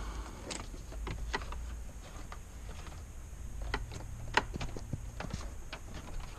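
Irregular light clicks and knocks of car dash parts and wiring being handled, with one sharper knock about four seconds in.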